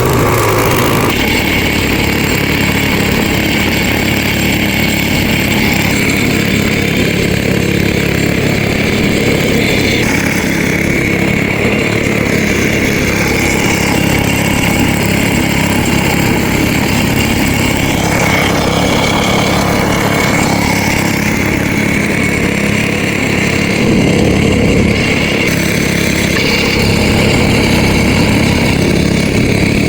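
A small engine running steadily and loudly, with a slight change in its sound about two-thirds of the way through.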